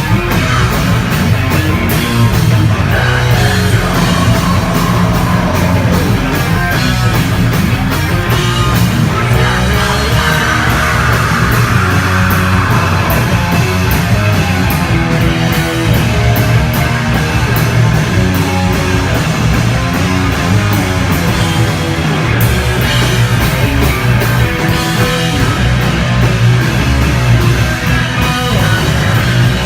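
Live heavy hardcore band playing, with distorted electric guitars, bass and pounding drums.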